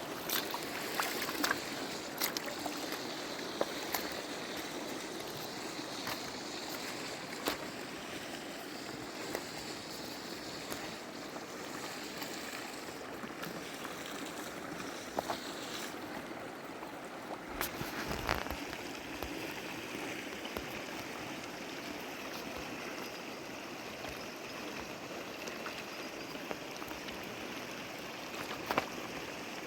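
A stream or river flowing steadily, with a few light knocks or clicks now and then.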